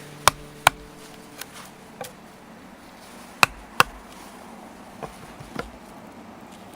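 Hand-tool strikes on wood, short and sharp: two loud pairs of blows, each pair about half a second apart, with fainter single knocks in between and after.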